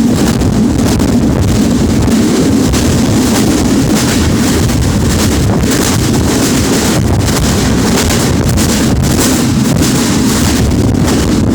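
Train running: a loud, steady rumble with wind buffeting the microphone.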